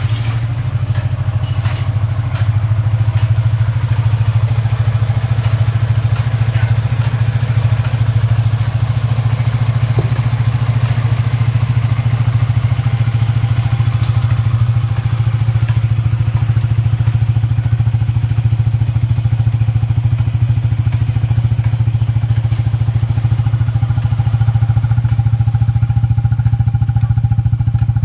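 Yamaha Exciter 150's single-cylinder four-stroke engine idling steadily through an aftermarket UMA Racing exhaust, just after being started, with no revving.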